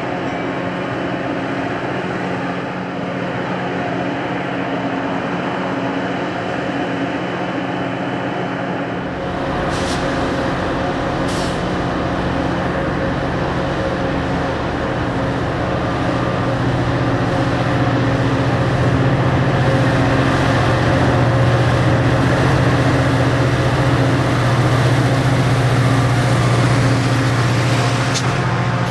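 F40-series diesel passenger locomotive running, its engine giving a steady drone. The sound changes about nine seconds in, with two sharp clicks, and gets louder from about sixteen seconds.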